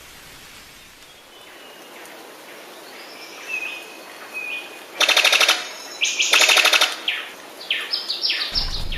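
A bird calling over a steady hiss: two short whistles, then two loud rapid rattling bursts about a second apart, each about half a second long, followed by a quick run of short falling notes.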